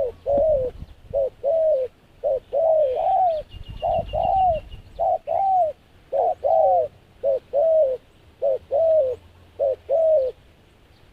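Dove cooing: a repeated two-part coo, a short note followed by a longer one that rises and falls, given about nine times at roughly one-second intervals.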